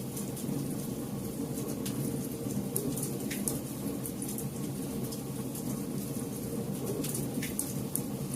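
Campfire burning: a steady low rush of flames with sharp crackles and pops of burning wood scattered through it, several in a few seconds.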